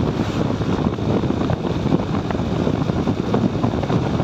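Wind buffeting a phone's microphone on a moving motorcycle, over a steady rumble of engine and road noise.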